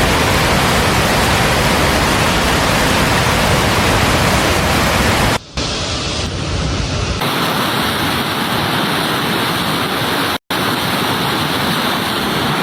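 Loud, steady rushing of floodwater. It changes abruptly at several cuts, and after about seven seconds it runs thinner, with less low rumble.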